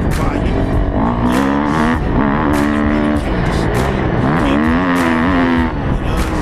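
Motocross motorcycle engine revving hard, its pitch climbing and dropping several times as the throttle is opened and closed.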